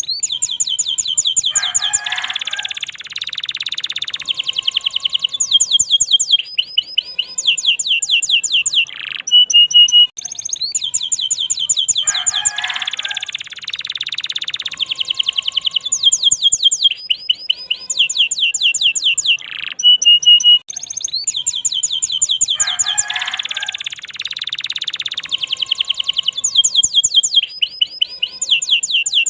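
Domestic canary singing loudly and without pause: a long song of fast trills, rolls and rapidly repeated high notes. The same run of phrases comes round again about every ten seconds.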